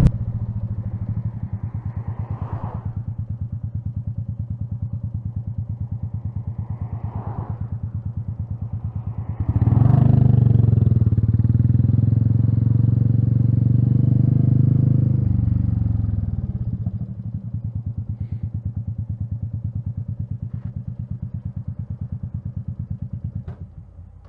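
Royal Enfield Meteor 350's single-cylinder engine running at low revs with an even pulsing beat. About ten seconds in it gets louder and rises in pitch under throttle, eases back down around sixteen seconds, and is cut off shortly before the end.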